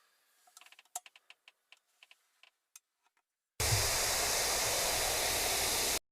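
A few faint scattered clicks, then a loud, steady hiss with a low rumble under it that starts suddenly past the middle and cuts off just as suddenly near the end.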